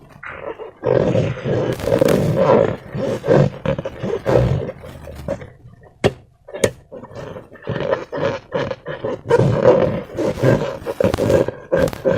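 Hands working slime and rubber balloons: irregular squishing and rubbing noises in uneven bursts, with two sharp clicks about six seconds in.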